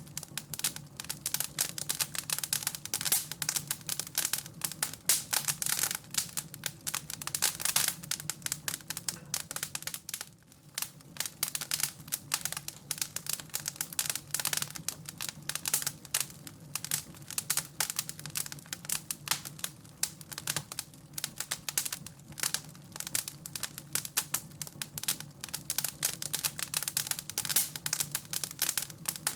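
Wood fire crackling in a fireplace: dense, irregular pops and snaps over a low steady hum, easing off briefly about ten seconds in.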